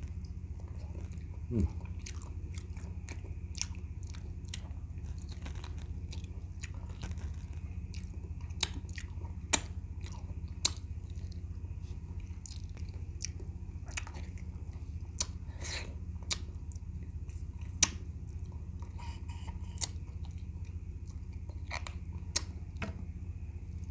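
Chewing and gnawing on boiled goat feet, with wet mouth smacks and clicks scattered throughout and a few louder ones. A steady low hum runs underneath.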